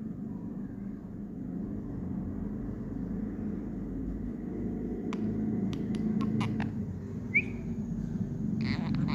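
Pet parrot sounds over a steady low rumble: a few sharp clicks, then a short rising chirp, and near the end the start of a harsh squawk.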